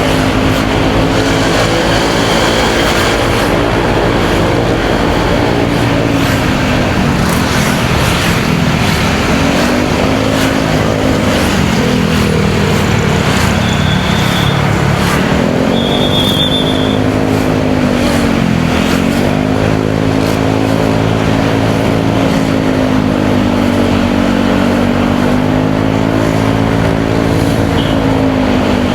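Motorcycle engine running under way, its revs dipping and building again several times, over steady road and wind noise. Two short high-pitched tones sound about halfway through.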